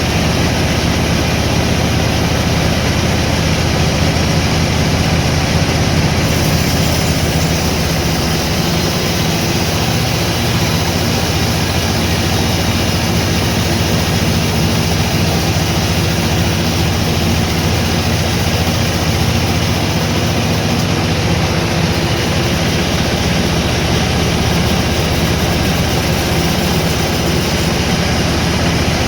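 Sawmill machinery running steadily, a continuous engine hum with a broad whir over it and no clear cuts or stops.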